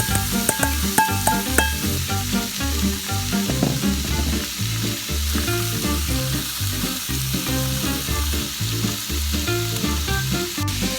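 Minced beef sizzling and frying in a hot pan as it is stirred, with background music playing, its bass notes repeating in a steady pattern.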